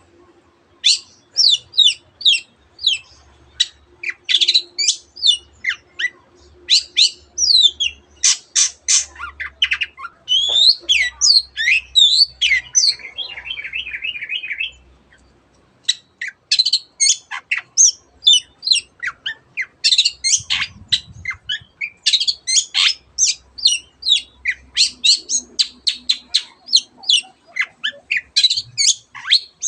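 Long-tailed shrike (cendet) singing in rapid-fire bursts of sharp, high, downward-sweeping notes, its song mixed with mimicked calls of other birds such as the canary. Halfway through there is a short buzzy trill and a pause of about a second before the fast notes start again.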